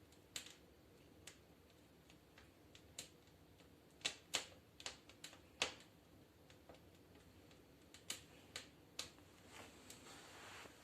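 Firewood crackling in a fireplace stove: faint, irregular sharp pops and clicks, with a cluster of louder pops midway.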